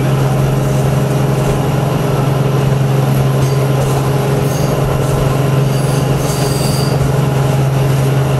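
Metre-gauge passenger train running along the line, heard from inside a carriage: a steady loud drone and rumble of the moving train, with a few brief high-pitched squeals about halfway through.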